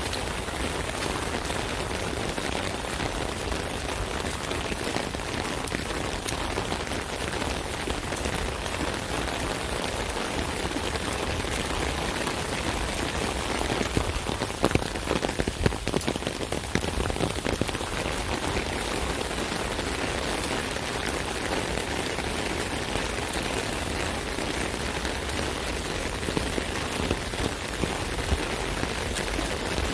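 Rain falling on an umbrella: a steady, dense patter of drops on the canopy. A cluster of louder, sharper drop hits comes about halfway through.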